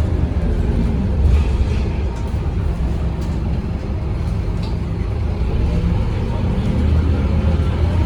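Scania K230UB city bus with its 8.9-litre Scania DC9 diesel engine running steadily, a continuous low rumble.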